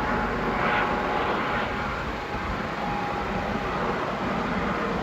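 Motorboat engines running steadily as a boat passes through the inlet: a continuous drone with a steady engine hum.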